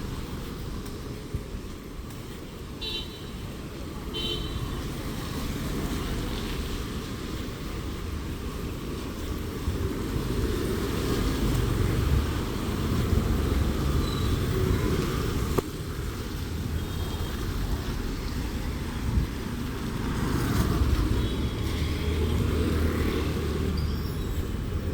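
Road traffic noise from passing cars and other vehicles, a steady low rumble that swells and fades as vehicles go by. Two short high toots come about three and four seconds in.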